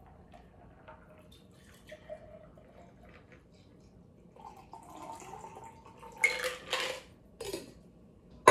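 A shaken cocktail being poured from a cocktail shaker into a tiki mug: faint clinks and trickling liquid, then louder clattering of ice against the shaker as the last of it is shaken out, ending with a sharp knock.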